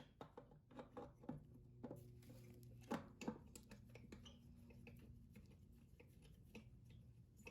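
Faint clicks and light metal knocks of tools and parts being handled while fitting a starter motor, with the two sharpest knocks about three seconds in, over a low steady hum.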